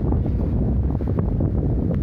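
Strong mountain wind buffeting the microphone: a steady, loud rumbling rush.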